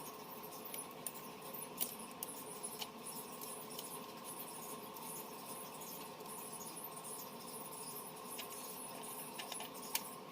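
Scattered faint light clicks and taps of small tools being handled, over a steady low hum.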